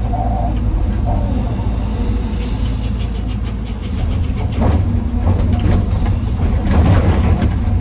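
Heavy diesel machinery running with a steady low rumble; from about halfway through, a run of clattering impacts as andesite rocks tumble into a steel dump-truck bed.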